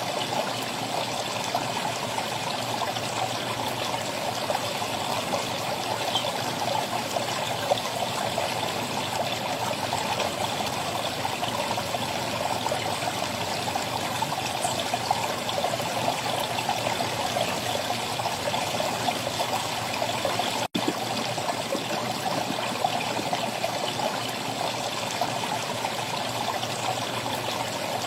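Steady running water, like a stream trickling, with an even rushing sound that drops out for an instant about three-quarters of the way through.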